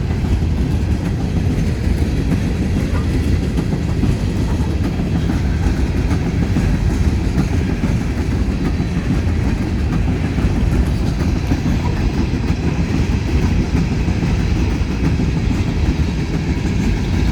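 Freight train cars rolling past at speed: a steady, loud rumble of steel wheels on the rails.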